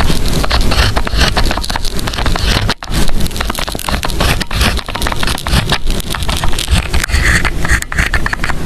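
Close-up scratching and crackling of pen and paper while studying, a dense run of quick scrapes and clicks with a brief gap just under three seconds in.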